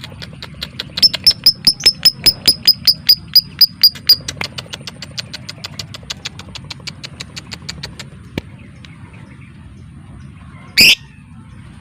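Lovebird chattering in the rapid 'ngekek' style: a fast run of sharp, high chirps, about six a second, loud for about three seconds and then trailing off into fainter clicks. Near the end comes one short, shrill call.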